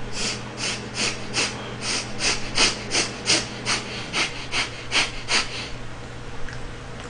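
Close-up chewing of a crisp KitKat chocolate wafer with the mouth closed: a steady run of crunches, about two or three a second, that stops a little past halfway.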